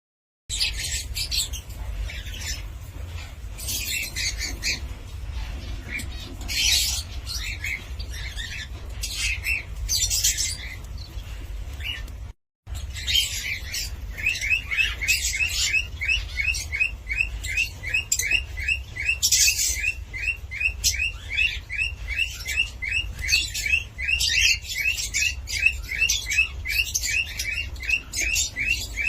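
Cockatiel chirping and calling in scattered bursts. After a brief break about halfway through, it goes into a fast run of short repeated chirps, about three a second. A low steady hum lies underneath.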